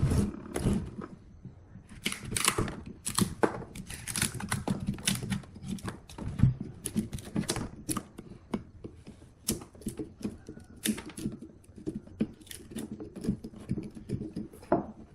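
Rapid, irregular clicks and light knocks, several a second, with no machine running.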